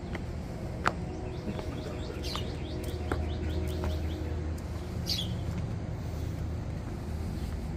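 Birds chirping in short calls and a quick run of repeated notes, over a steady low hum. A few sharp clicks stand out, the loudest about a second in.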